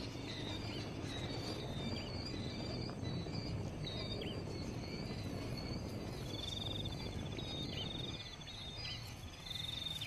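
Insects chirping and trilling high and steadily, with a faster trill joining about six seconds in, over a steady low background noise; a few short bird chirps are scattered through.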